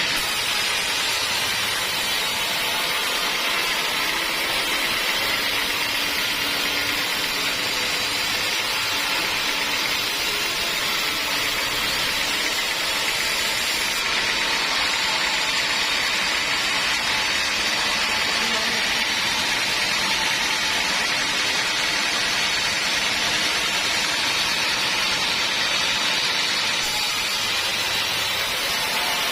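Homemade band sawmill running steadily, its band saw blade cutting lengthwise through a teak log, a continuous high, hissing saw noise that holds even throughout.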